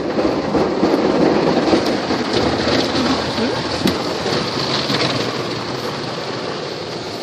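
PDQ ProTouch Tandem soft-touch automatic car wash running: a steady rush of water spray and scrubbing brushes drumming on a car, swelling about a second in and then slowly easing off.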